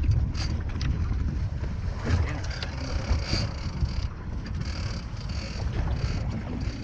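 Wind buffeting the microphone over the low rumble of a small fishing boat at sea, with a few light knocks.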